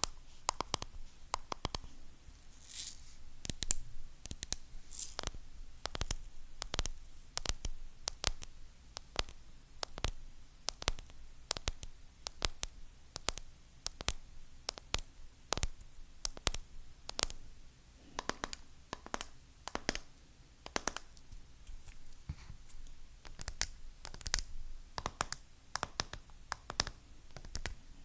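Fingernails tapping on hard objects: a steady run of quick, sharp taps, about two to three a second.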